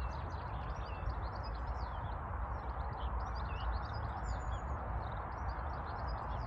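Songbirds singing, many short chirps and trills, over a steady low rumble and hiss of outdoor background noise.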